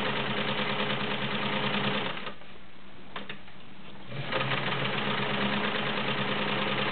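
Vintage Kenmore 1750 sewing machine stitching through two layers of 4-ounce garment leather. It runs for about two seconds, stops briefly with a couple of clicks, then runs again.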